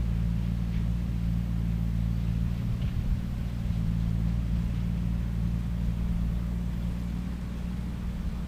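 Skid steer with a shredder head running steadily, a deep, even engine drone.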